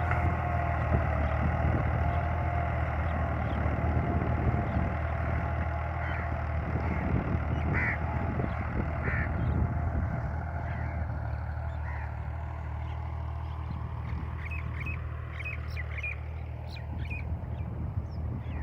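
Massey Ferguson 260 Turbo tractor's diesel engine running steadily under load while pulling an 11-tine cultivator, growing somewhat quieter in the second half. Birds call over it, scattered at first, then a quick flurry of calls near the end.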